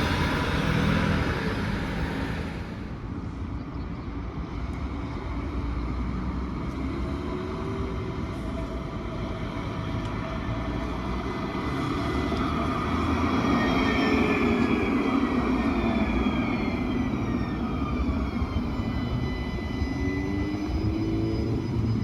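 A city transit vehicle passing, with a loud rush of passing noise that dies down after about two seconds. About halfway through, the electric drive's whine starts, several tones gliding up and down in pitch over a steady rumble.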